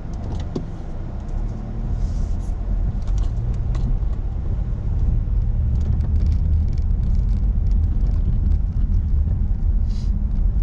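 A car driving: a steady low engine and road rumble that grows louder about a second and a half in.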